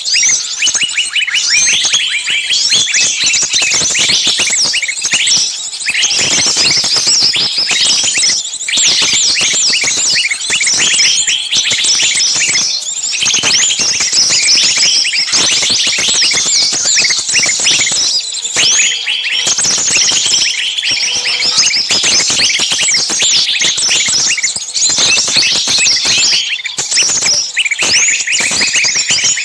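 Many small birds chirping at once in a dense, unbroken chorus of short overlapping chirps.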